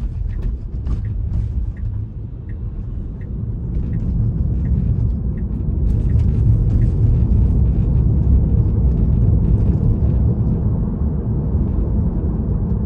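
Tyre and road noise inside a Tesla's cabin as the car pulls away and gathers speed, a low rumble that grows over the first six seconds and then holds steady. Faint, evenly spaced ticks come about every two-thirds of a second in the first five seconds.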